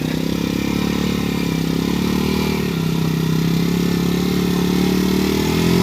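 Motorcycle engine running steadily at low revs, with a brief rise and fall in revs near the end.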